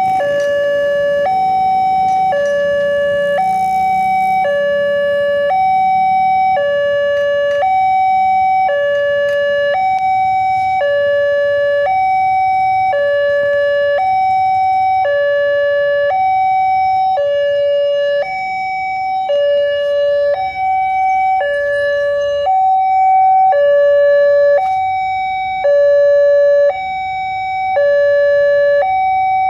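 Railway level-crossing warning alarm sounding continuously: an electronic two-tone signal alternating evenly between a higher and a lower note, each held about two-thirds of a second, warning that a train is approaching.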